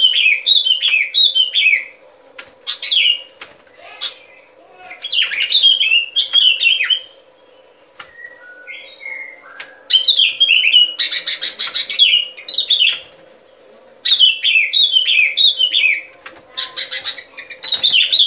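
Sooty-headed bulbul (yellow-vented, bông lau đít vàng) singing in repeated bursts of quick, chirpy downward-slurred notes, with pauses of a second or two between phrases. About eleven seconds in there is a harsher, scratchy call.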